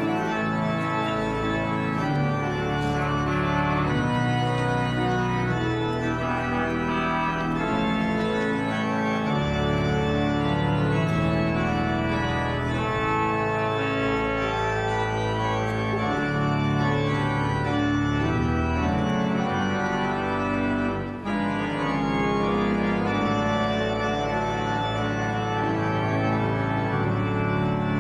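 Organ playing slow, sustained chords, with a brief break about three-quarters of the way through.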